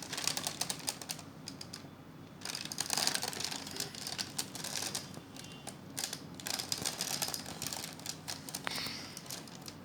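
Plastic clicking and rattling from a Nerf Delta Trooper blaster being handled to clear a jammed dart: a run of irregular clicks.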